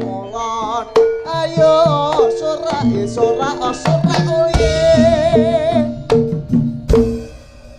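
Jaranan gamelan music: hand drums driving the rhythm, with a repeated bright pitched note struck about twice a second. Over it runs a wavering melody with strong vibrato, loudest a little past the middle.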